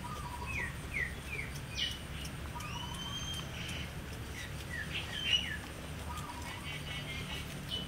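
Small birds chirping: a run of short falling chirps, a longer whistled note about three seconds in, and a louder cluster of chirps a little after five seconds, over a steady low hum.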